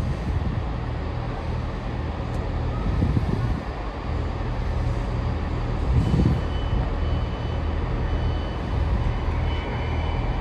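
TransPennine Express train standing at the platform before departure, its engines humming steadily and low. From about six seconds in, a high-pitched beeping starts and repeats.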